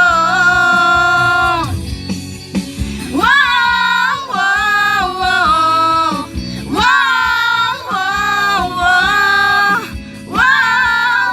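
A high voice singing long held notes over music, in phrases of a few seconds broken by short breaths.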